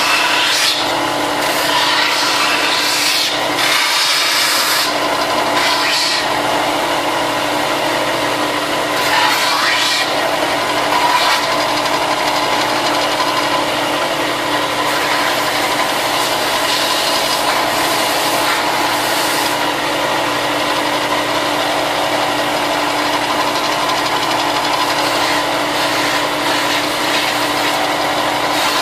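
Sanding the cut edges of plastic Stormtrooper armor forearm and bicep pieces: a continuous scratchy rubbing over a steady motor hum, with louder rasping strokes in the first ten seconds or so.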